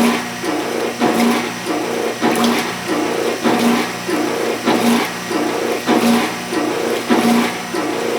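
Old Wanke washing machine running: its motor hums steadily under an even rhythm of agitator strokes, about two a second, every other one stronger.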